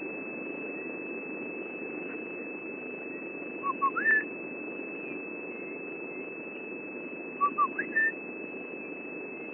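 Gorgeous bushshrike calling twice: each phrase is two short whistled notes followed by a higher, rising whistle. A steady low background hum runs underneath.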